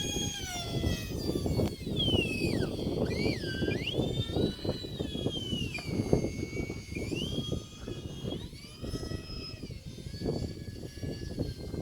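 Twin electric ducted fans of a small radio-control A-10 model jet whining, the pitch falling and rising several times with throttle changes. Heavy wind buffets the microphone underneath.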